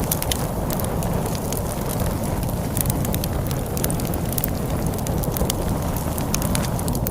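Wood fire crackling with many irregular sharp pops and snaps, over a steady low rush of storm wind.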